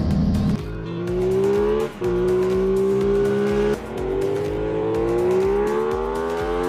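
Aprilia Tuono 660's parallel-twin engine and exhaust accelerating, its pitch climbing steadily, with two short breaks about 2 and 4 seconds in.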